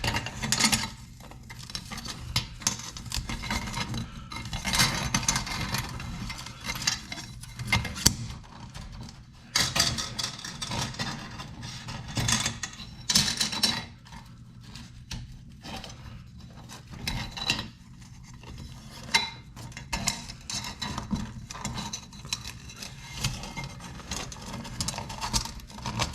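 Irregular metallic clicks, taps and scrapes of a coiled steel recoil spring being wound by hand back into a Honda ATC185 pull-start recoil housing.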